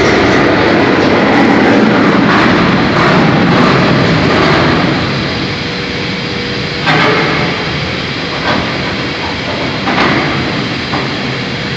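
Old forging crane creaking as it runs, a loud grinding metal-on-metal noise like a rail vehicle, with two sharp clanks in the second half and a steady hum coming in.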